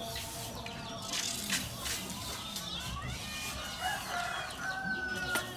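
Bird calls: many short repeated chirps and clucks, with a longer held call about four and a half seconds in.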